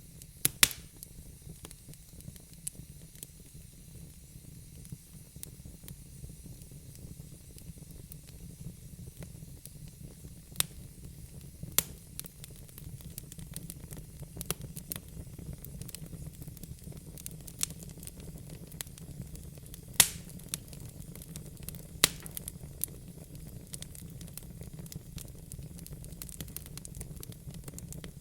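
Wood fire in a fireplace crackling, with scattered sharp pops at irregular intervals over a steady low rumble; the loudest pops come about twenty and twenty-two seconds in.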